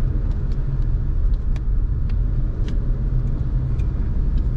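Steady low rumble of a car driving along a road, heard from inside the cabin, with scattered faint ticks.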